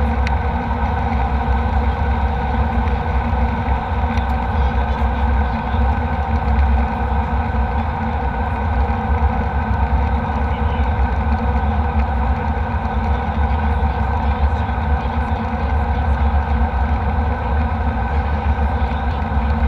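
Steady in-flight cabin noise of a jet airliner: a deep engine and airflow rumble with a few steady hums over it, unchanging throughout.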